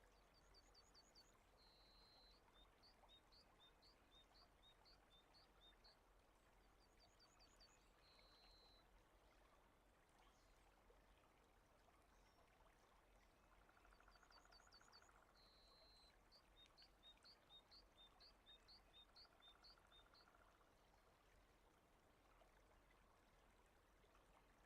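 Very faint rain ambience, a steady water hiss, with a small songbird singing the same short phrase three times: a rapid run of high chirps, a short buzz, then a quick descending series of notes.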